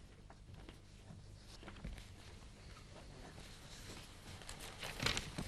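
Quiet room noise with faint, scattered footsteps and shuffling, and a few louder knocks about five seconds in.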